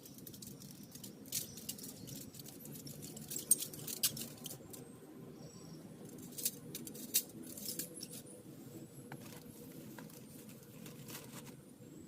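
Steady rain noise, as on a tent, with scattered sharp clicks and taps; the loudest tap comes about three and a half seconds in, and a few more cluster between four and eight seconds.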